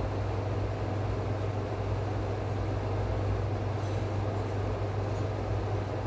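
A steady, unchanging low machine hum with an even rushing noise over it.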